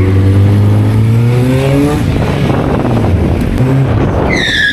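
Motorcycle engine accelerating under way, its pitch climbing for about two seconds, dropping at a gear change, then rising again. Near the end a loud, high squeal sets in and falls slightly in pitch.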